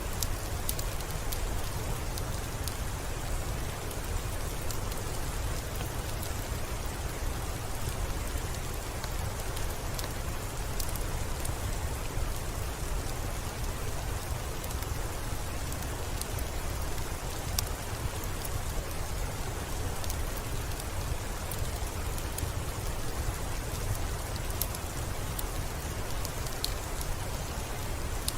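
Steady rain falling, with a deep low rumble underneath and scattered sharp clicks throughout.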